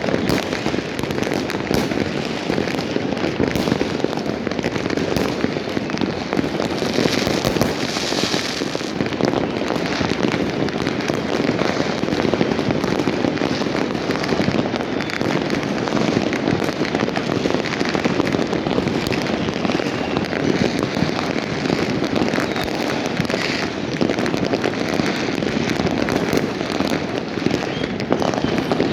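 Dense, continuous barrage of fireworks and firecrackers going off all around, many bangs and crackles overlapping without a break, with a stretch of louder hissing about seven seconds in.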